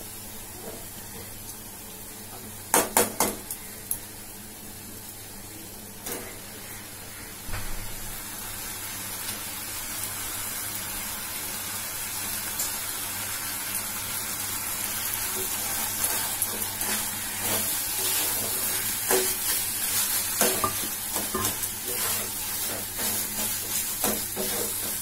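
Chicken masala sizzling in a frying pan as boiled mashed potato is added and stirred in with a spatula. A few sharp metal clanks come about three seconds in, and the sizzle grows louder toward the end, with repeated scrapes of the spatula in the pan.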